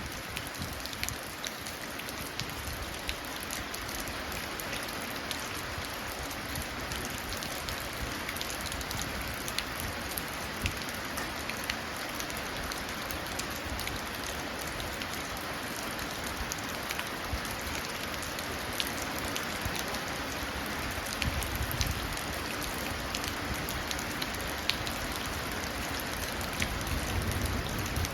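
Steady rain falling into puddles, with many sharp single drops splashing through the even hiss of the downpour.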